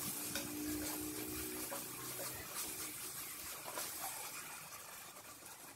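Chopped vegetables and spices sizzling faintly in a pot while being stirred with a silicone spatula. The sizzle fades toward the end.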